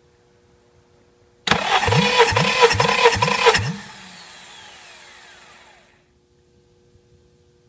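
Honda D17A 1.7L four-cylinder engine turned over by its starter motor for about two seconds, with about five even compression pulses, as for a compression test. The cranking stops abruptly and the starter spins down with a fading, falling whine.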